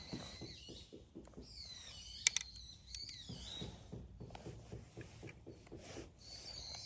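Wood fire crackling, with irregular small pops, one sharp louder pop about two seconds in, and high gliding whistles over it.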